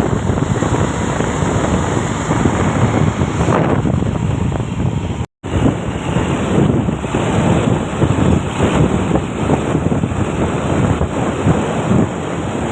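Heavy wind buffeting the microphone over the rumble of a moving truck, a steady rough roar. It cuts out completely for a moment about five seconds in.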